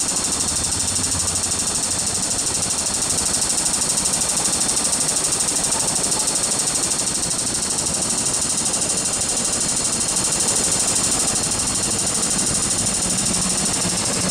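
A steady hiss with a fast, even pulsing throughout. Near the end a low rumble rises as an MTR M-Train electric multiple unit runs into the station without stopping.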